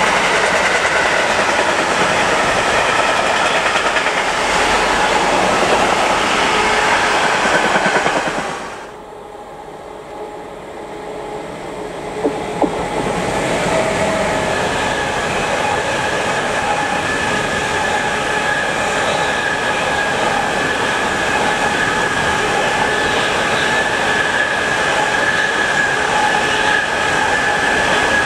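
Freight train wagons rolling past, wheels running over the rails, first a container train that fades away at about eight and a half seconds. After two short knocks, a second freight train of car-transporter wagons runs past from about thirteen seconds with a steady high ringing from the wheels.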